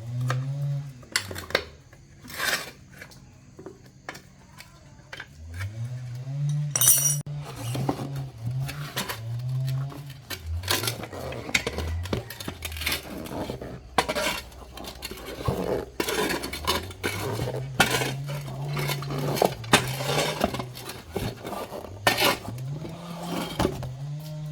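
Metal clinking and knocking, many separate strikes, like tools and metal parts being handled during repair work, over a low wavering hum.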